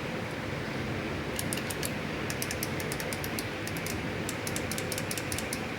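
Steady noise of shop fans running, with a quick, irregular run of light clicks starting about a second and a half in, like small plastic parts of a window-switch module being handled.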